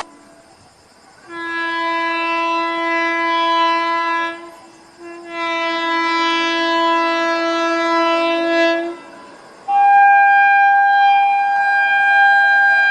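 Train horn sounding two long, steady blasts of about three and a half seconds each. A higher-pitched horn tone then starts and is held to the end.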